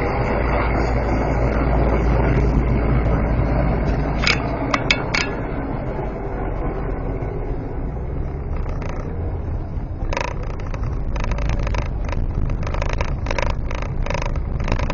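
Car driving, with a steady low road and engine rumble. A few sharp clicks come about four seconds in, and from about ten seconds in there is a run of irregular scraping and rattling knocks.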